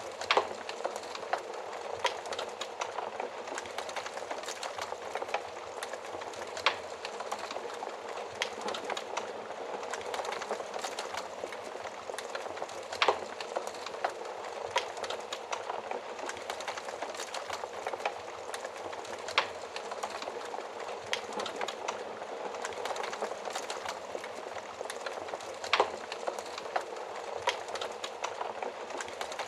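Wood fire burning in an oven: a steady hiss of flames with constant small crackles and an occasional louder pop every few seconds.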